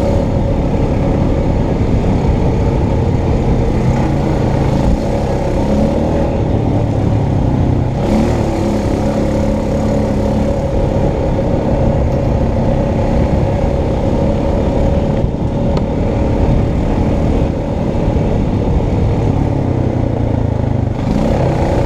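Honda Foreman Rubicon ATV's single-cylinder engine running steadily on a trail ride, its pitch shifting now and then with the throttle.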